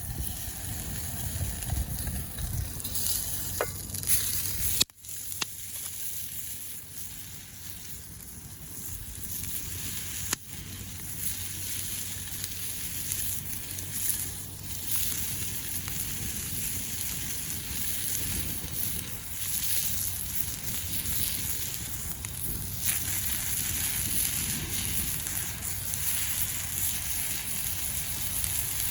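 Food sizzling in a pan over a campfire, a steady hiss with faint crackles and a sharp break about five seconds in.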